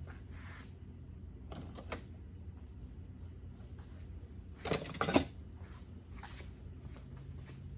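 A few knocks and clanks over a low steady hum, the loudest two close together about five seconds in.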